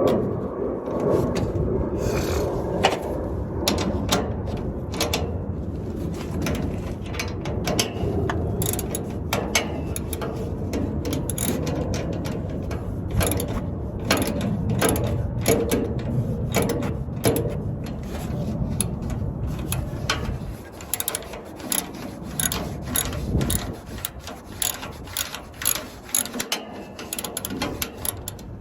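Ratchet wrench clicking in runs on the nuts of an exhaust flex-pipe clamp, over a low rumble that drops away about twenty seconds in.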